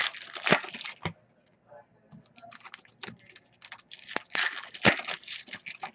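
Trading card packs and cards being handled: crinkling and rustling with sharp snaps, in two stretches broken by a short pause about two seconds in.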